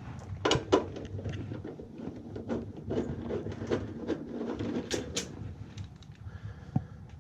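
Hands working on equipment: a run of irregular clicks, knocks and light rattling of parts being handled, with sharper knocks about half a second in and again near five seconds.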